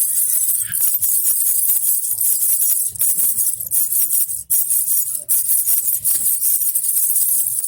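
A baby rattle with small jingle bells (a jhunjhuna) shaken continuously, giving a bright, dense, irregular jingling with faint soft thuds underneath. There is a brief break about four and a half seconds in.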